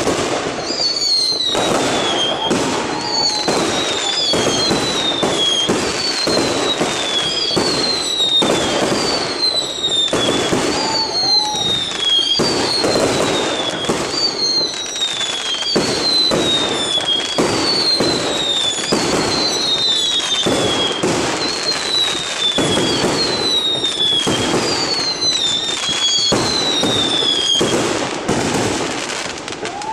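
Fireworks going off in quick succession: a dense, continuous run of bangs and crackling bursts. Over it, a high whistle falls in pitch again and again, about every second and a half.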